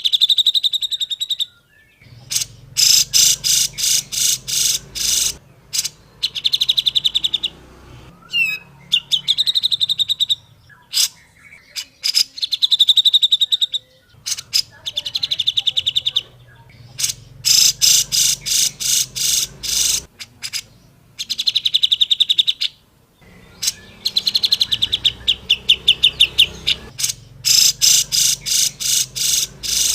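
Cucak jenggot, a bulbul, singing in rapid chattering phrases. Each phrase is a quick run of sharp repeated notes lasting one to three seconds, with short pauses between phrases.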